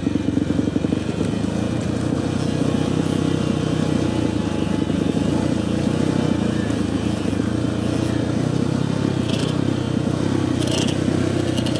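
Dirt bike engine running at a steady, even throttle while riding a trail, with a few short rattles near the end.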